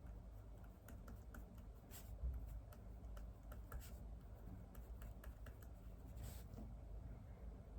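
Faint, irregular typing on a computer keyboard: scattered soft key clicks, with a few firmer strokes.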